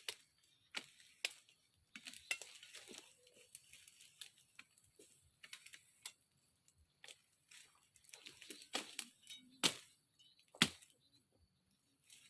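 Scattered rustling and crackling of leaves and branches, broken by sharp snaps and knocks, with the two loudest knocks close together near the end, like woody stems being cut and handled.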